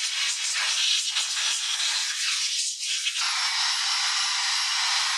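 Rust being scrubbed off metal motorcycle parts: a loud, scratchy hissing abrasion. About three seconds in it changes to a steadier hiss with a faint steady whine, like a small powered wire wheel running.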